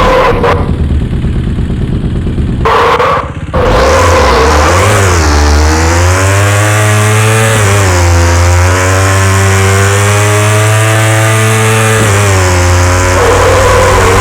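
KTM Duke 390 single-cylinder engine running loud, its revs rising and falling several times. The sound thins out abruptly for a few seconds near the start, then the engine pitch swells again.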